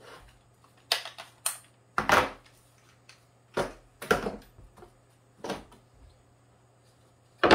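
Pine box pieces being handled on a workbench while being glued: a series of irregular wooden knocks and clacks, about eight in all, some sharp and some a little drawn out.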